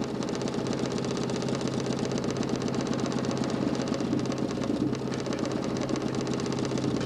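DC motor spinning a large plywood Nipkow disc of a homemade mechanical television: a steady motor whirr with a rapid, even clatter.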